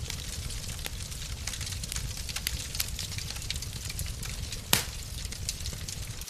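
Fireplace fire crackling steadily, with a low rumble under many small pops, and one much louder pop about three-quarters of the way through.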